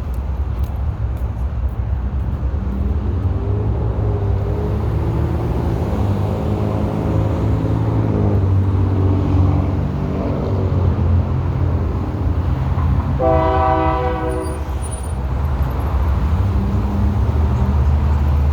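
Diesel freight locomotives running hard as the train pulls away, a deep steady engine drone with the engine note rising in pitch for a few seconds. About thirteen seconds in, the locomotive horn sounds one blast of about a second and a half.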